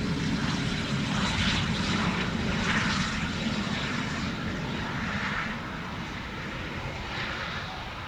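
Airliner engines running: a steady low rumble with a wavering hiss above it, easing off a little after about five seconds.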